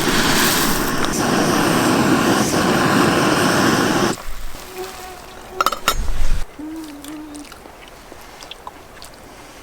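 Camp cooking on a backpacking stove: a steady hiss of frying and burner noise that cuts off suddenly about four seconds in, leaving quieter background with a couple of soft knocks.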